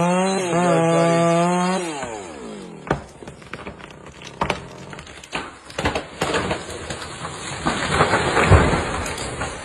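Chainsaw running at full throttle, then let off about two seconds in so the engine note drops away. Irregular knocks and cracks of wood follow, with a louder burst of crackling near the end.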